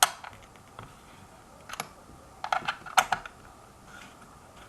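Sharp clicks and taps of tools and metal parts being handled while the scooter's wheel motor mounting is tightened, about eight irregular clicks, some in quick pairs.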